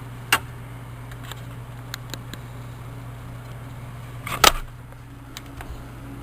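Handling sounds while working on a car's blower motor wiring: a sharp click just after the start and a louder clatter about four seconds in, with a few light ticks between, over a steady low hum.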